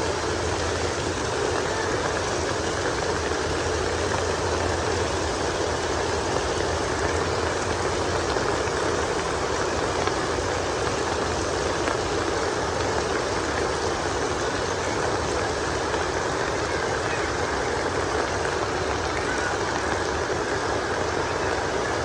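Heavy rain falling steadily, an even unbroken wash of noise with no change in level.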